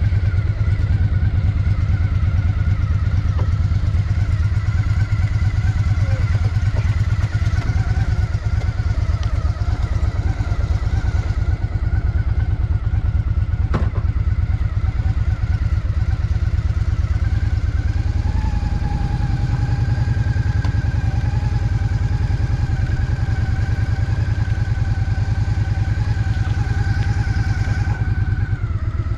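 Honda Shadow VT750's V-twin engine running steadily while riding through city traffic. Its note changes about two-thirds of the way through, and there is a single sharp click near the middle.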